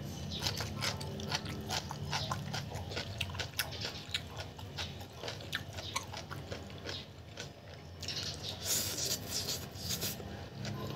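Close-up eating sounds of instant noodles and radish kimchi: wet chewing and mouth clicks throughout, with a noisy slurp of noodles shortly before the end.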